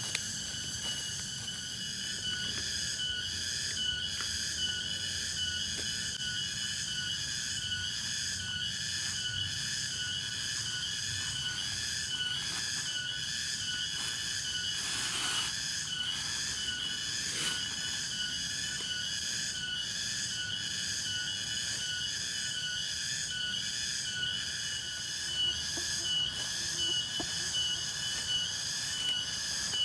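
Night chorus of insects, a steady high-pitched shrilling made of several overlapping tones that pulse evenly, about one to two pulses a second.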